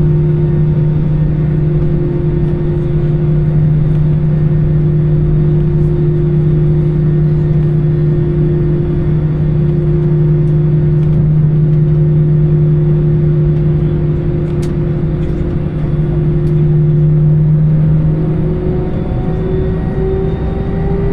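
Airbus A320 cabin noise: a steady engine drone with a constant low hum. Near the end the hum drops away and a whine begins to rise in pitch as the engines change speed.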